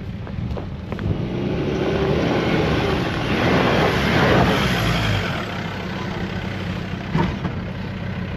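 Four-wheel-drive's engine revving under load, climbing to a peak about four seconds in and then easing back to a steady run. A single knock sounds about seven seconds in.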